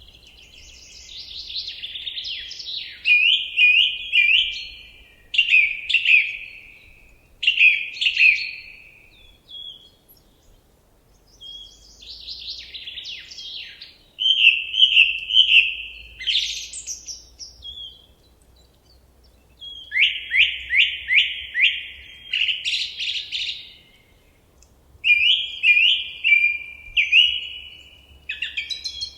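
A songbird singing a series of varied phrases, each a second or two long with short pauses between. Several phrases are quick runs of repeated notes, and one is a fast string of downward-sweeping notes about two-thirds of the way through.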